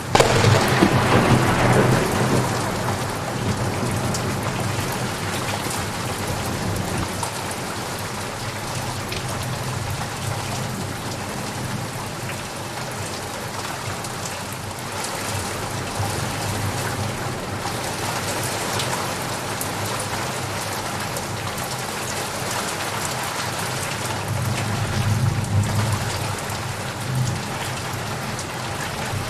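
Steady heavy rain with thunder: a loud thunderclap cracks right at the start and rolls away over a couple of seconds, and a lower rumble of thunder swells again near the end.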